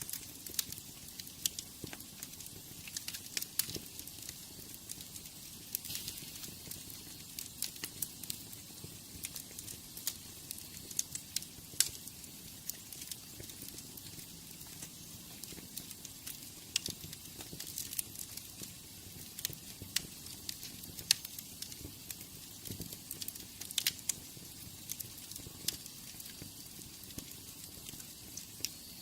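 Wood fire in a fireplace crackling: irregular sharp pops and snaps over a soft steady hiss.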